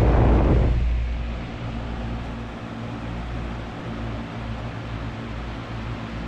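Early-2010s Lasko WeatherShield 20-inch box fan with a tuna-can motor running on medium speed: a steady motor hum under a rush of moving air, louder for about the first second. On this speed the fan makes a scraping noise, which the owner puts down to the motor shaft scraping against something.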